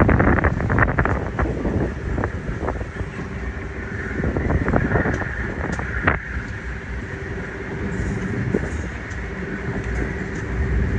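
Passenger train running along the track: a steady rumble with irregular clicks and knocks of the wheels on the rails, and wind buffeting the microphone.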